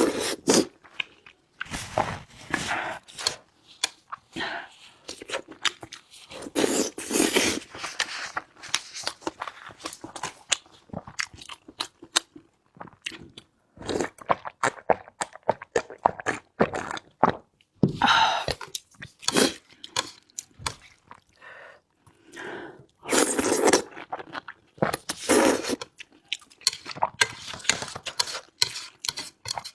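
A person eating into a close microphone: irregular wet chewing and crunching, with several longer noisy bursts between the bites.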